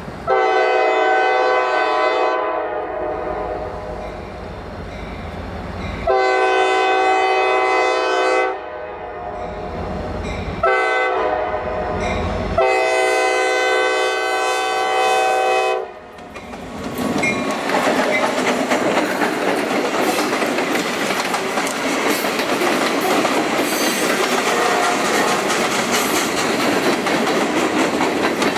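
Diesel freight locomotive's multi-chime air horn sounding the grade-crossing signal: two long blasts, one short and one long. Then the locomotive and its freight cars pass close by, a loud steady rush of wheels on rail.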